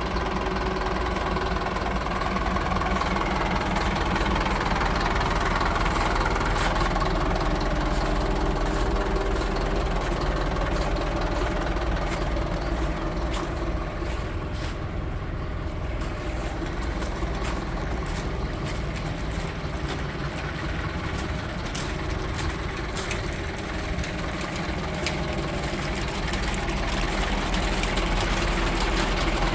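Mercedes-Benz Atego 917 truck's four-cylinder diesel engine idling steadily.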